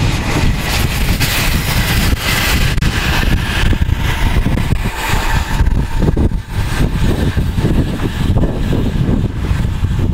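Wheels of a freight train's goods wagons rolling past on the rails, the rail noise dropping away about five and a half seconds in as the last wagon clears. A low wind rumble on the microphone carries on after it.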